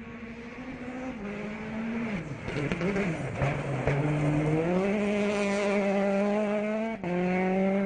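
Rally car engine on a stage. It drops in pitch in steps about two to three seconds in as the car brakes and shifts down. It then climbs steadily under acceleration, growing louder, with a quick upshift near the end.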